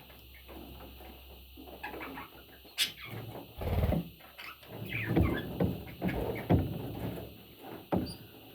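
Budgerigar chicks calling, a run of short repeated calls in the second half, with a sharp click and a low thump just before it.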